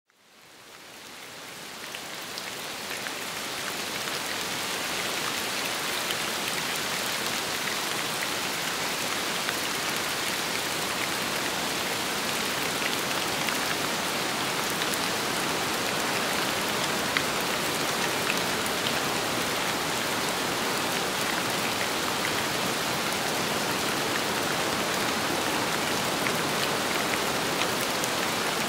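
Steady rain falling, with scattered drops ticking, fading in from silence over the first few seconds and then holding even.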